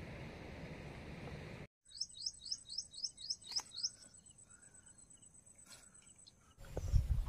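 A bird singing a quick run of about eight short rising notes, roughly four a second, over a thin steady high tone. Before it comes a steady outdoor hiss that cuts off abruptly, and loud low rumbling bursts begin near the end.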